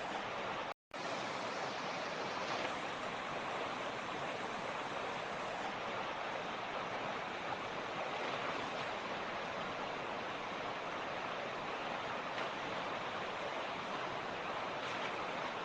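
A fast mountain stream rushing steadily over rocks. The sound cuts out for an instant a little under a second in, then carries on unchanged.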